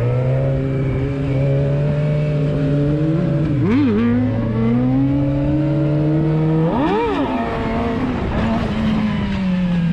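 Motorcycle engine running at a steady speed, with two quick throttle blips, about four and seven seconds in, where the pitch jumps up and drops straight back. Near the end the engine note falls as it slows.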